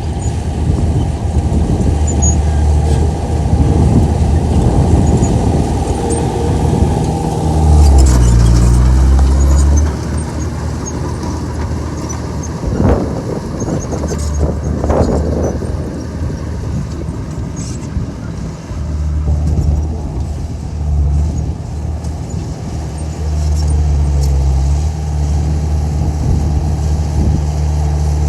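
Komatsu bulldozer's diesel engine running under load, its pitch rising and falling as the machine works, with a heavy surge about a third of the way in. Two sharp knocks or clanks come in the middle.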